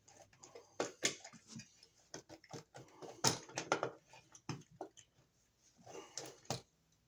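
Irregular clicks, scrapes and knocks from handling a worn wall receptacle and its wires. The sharpest knock comes about three seconds in.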